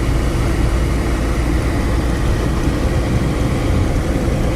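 Steady low rumble of a vehicle's engine and road noise while driving, unbroken and even in level.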